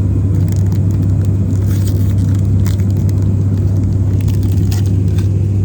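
Steady low drone of an airliner cabin in flight, with scattered crackles and crunches of a snack being unwrapped and eaten close to the microphone.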